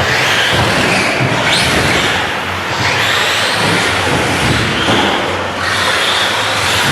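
Several 1/10-scale electric RC trucks racing on an indoor carpet track: a busy, high-pitched whine of motors and drivetrains, with pitch rising several times as cars accelerate out of corners.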